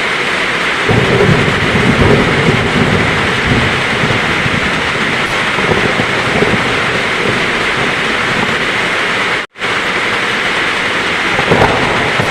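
Heavy rain falling steadily, with a low rumble of thunder that starts about a second in and rolls on for several seconds. The sound cuts out for a split second about three-quarters of the way through.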